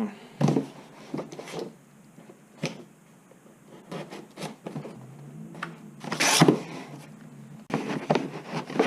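Cardboard box and packaging being handled: scattered short rubs and scrapes, with a louder rustle about six seconds in and another near the end.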